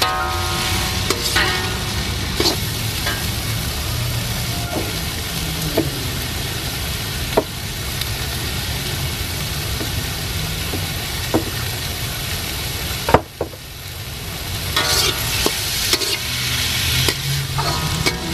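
Diced vegetables and black beans sizzling steadily in a hot wok as they are stir-fried, with scattered sharp knocks of the utensil against the wok, the loudest about 13 seconds in.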